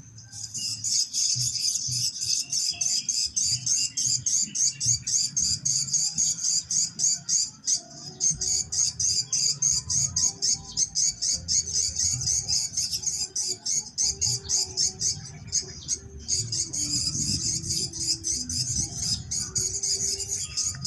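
Swiftlets twittering: a dense stream of rapid, high chirps, several a second, with short breaks about eight and sixteen seconds in, over a low rumble.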